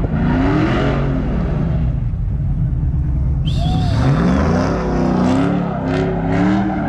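Car engine revving hard over and over, its pitch rising and falling, with a brief high-pitched squeal about three and a half seconds in.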